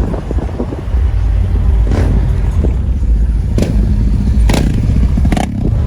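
Deep, steady car engine rumble with four sharp cracks, irregularly spaced, from about two seconds in.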